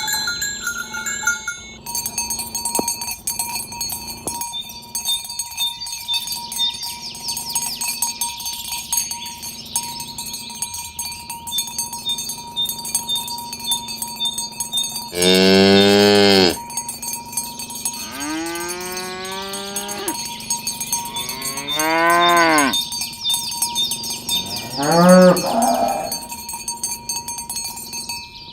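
Cattle mooing four times, long calls with the first, about halfway through, the loudest, over steady clanking and jingling of cowbells.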